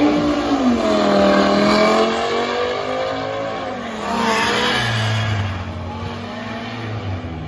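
Audi TT with a five-cylinder engine accelerating hard down a drag strip, its engine pitch climbing and dropping back at each upshift, growing fainter as it pulls away.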